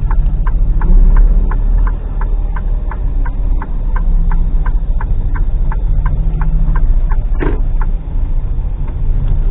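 Articulated lorry's diesel engine running low and steady, heard from inside the cab, with the indicator relay ticking evenly about two and a half times a second. A brief sharper sound cuts in about seven and a half seconds in.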